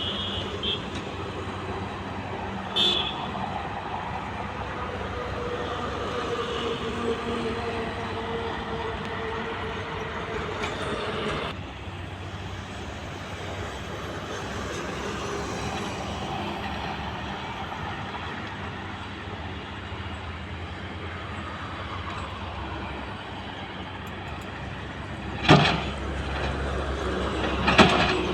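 Heavy diesel construction machinery running steadily, with a few sharp knocks; the two loudest come near the end.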